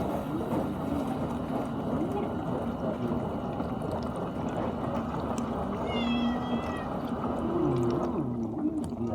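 GE dishwasher running its wash, water spraying and sloshing inside the tub, with a short wavering high-pitched tone about six seconds in. The spraying noise thins out near the end.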